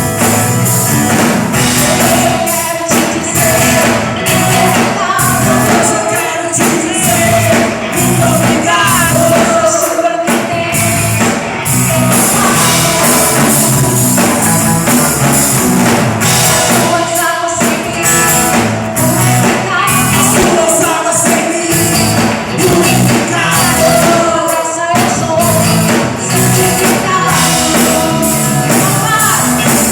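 Worship band performing a Portuguese gospel song: singing over a full band with a tambourine in the mix.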